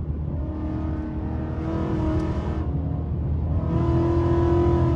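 Ford Mustang 5.0 V8 heard from inside the cabin at highway speed, with a steady low rumble and an engine note that swells twice, rising slightly in pitch as the car pulls.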